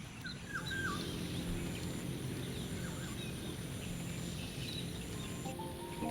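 Birds chirping and calling in short, scattered notes over a steady low background hum of outdoor ambience. A few soft music notes come in near the end.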